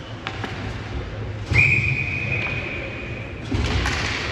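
Referee's whistle blown once: a single steady high note that starts sharply about a second and a half in and holds for about two seconds.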